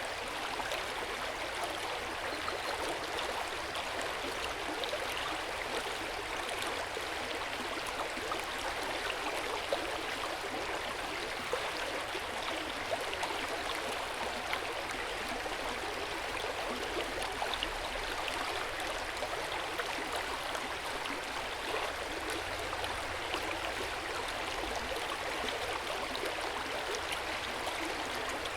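Hot spring water flowing steadily into an open-air hot spring bath, with an even splashing rush and small scattered drips and plinks.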